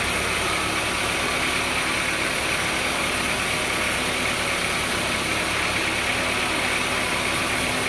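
An engine running steadily at a constant speed, with a continuous hiss and no change in pitch or level.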